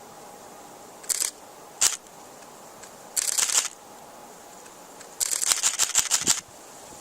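Camera shutter firing: single clicks, then short and long rapid bursts of continuous shooting, the longest lasting over a second, over a faint steady outdoor hiss.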